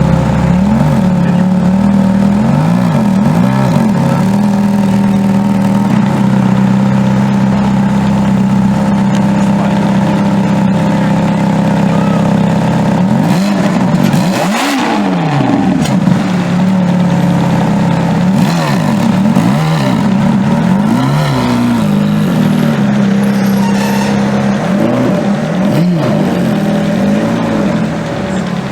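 Ferrari engine running at a steady note and blipped again and again, the pitch rising and falling every second or two, with a bigger rev about halfway through.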